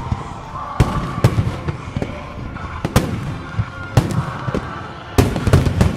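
Starmine fireworks: aerial shells bursting in a run of sharp bangs, with a quick cluster of bursts near the end, over music playing from loudspeakers.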